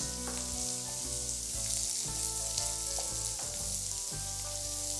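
Sliced shallots frying in hot coconut oil, with a steady, even sizzle.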